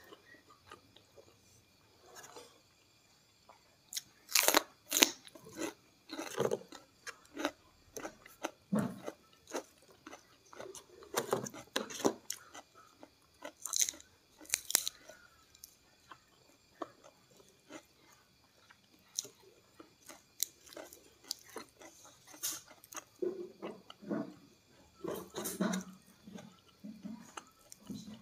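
Close-miked chewing of rice, fish, kerupuk crackers and raw lettuce, with sharp irregular crunches. The loudest crunches come about four seconds in and again about fourteen seconds in.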